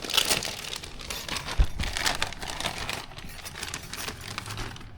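Crinkly packaging rustling and crumpling as small kit parts are handled, busiest in the first few seconds and dying down after, with one short knock about a second and a half in.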